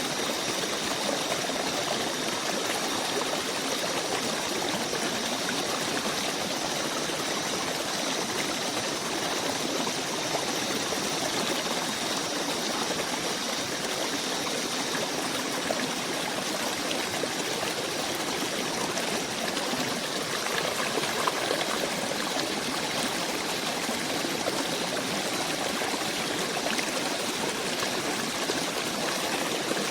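A stream of water flowing steadily, an even rushing and trickling.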